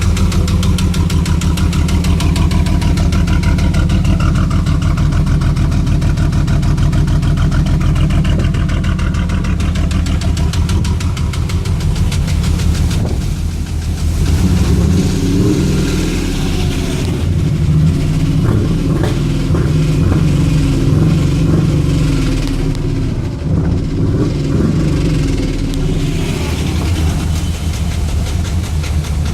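Pontiac Firebird's 3.8-litre V6 running with a rapid knocking from the bottom end: rod knock. It idles steadily at first, then from about halfway the pitch rises and falls as the engine is revved.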